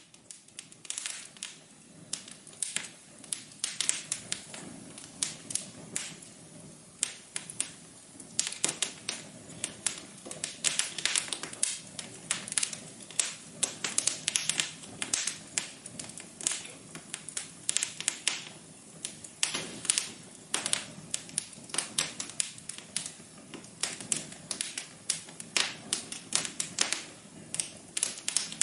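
Wood fire crackling in a fireplace: a dense, irregular run of sharp pops and snaps over a soft low hiss.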